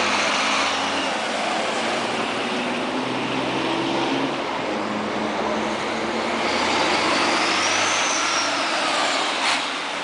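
Racing trucks' turbo-diesel engines running on track, a continuous dense engine noise, with a high whistle rising and falling in the second half and a brief sharp sound near the end.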